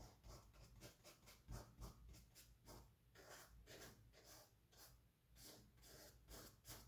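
Faint, quick, repeated scratchy swishes of a paintbrush stroking acrylic paint onto canvas, a few strokes a second.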